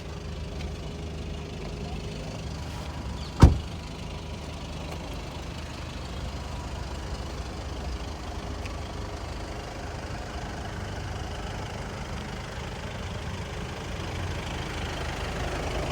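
Volkswagen Golf VII GTD's 2.0 TDI four-cylinder diesel engine idling steadily, with a single sharp, loud knock about three and a half seconds in. The engine grows a little louder near the end.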